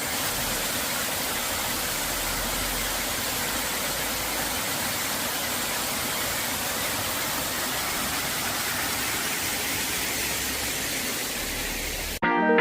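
Steady rushing of running water, an even hiss with no change in level. It starts suddenly and cuts off suddenly just before the end.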